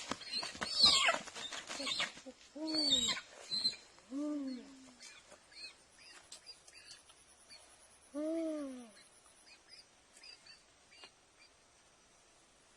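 A trapped hen struggling and squawking. A loud scrappy burst of flapping and shrill cries in the first two seconds is followed by three loud arched squawks that rise then fall, about three, four and eight seconds in. Faint short high chirps sound in between.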